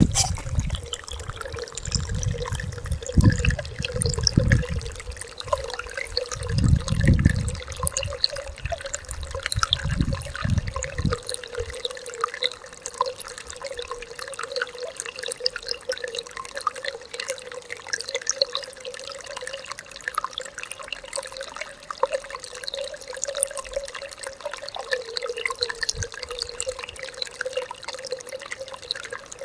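Stream water flowing and babbling steadily over stones. Low rumbles come and go through the first twelve seconds, then stop.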